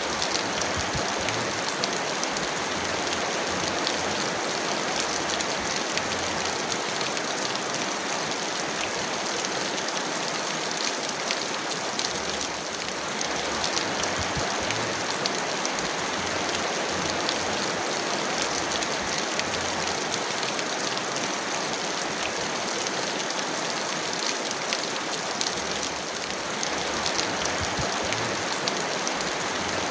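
Heavy rain falling steadily, an even hiss with many sharp ticks of individual drops striking close by.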